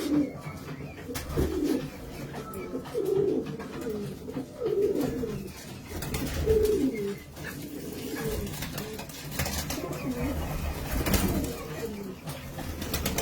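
Domestic pigeons cooing: a series of low coos that fall in pitch, repeated every second or two.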